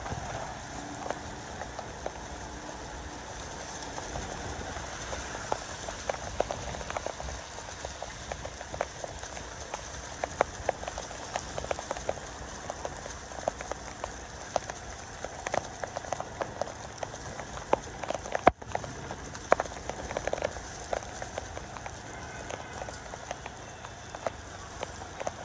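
Steady rain, with many irregular drops tapping close to the microphone and one sharper knock about two-thirds of the way through.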